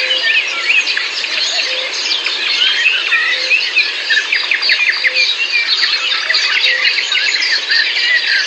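Many songbirds chirping and singing over one another in a dense, continuous chorus, with a faint low note repeating every second or so beneath it.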